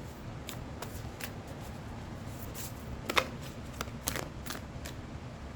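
Oracle cards being shuffled by hand: scattered soft riffles and taps, the sharpest a little after three seconds and about four seconds in.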